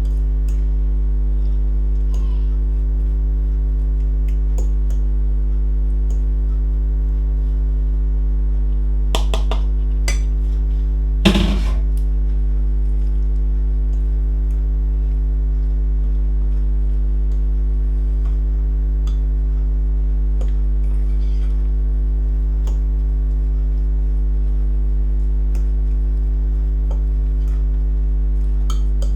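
A steady low electrical hum, with a few clinks of a utensil against a bowl about nine to twelve seconds in, the loudest a sharp knock near the end of that stretch.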